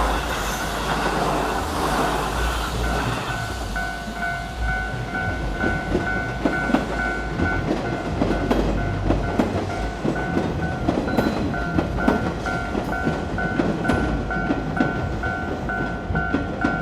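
Meitetsu electric train passing over a level crossing, its wheels clacking over the rail joints, while the crossing's warning bell rings over and over from about three seconds in.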